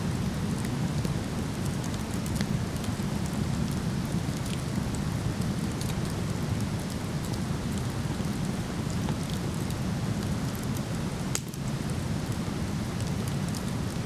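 Steady rush of a waterfall, with a wood fire crackling in scattered sharp pops over it.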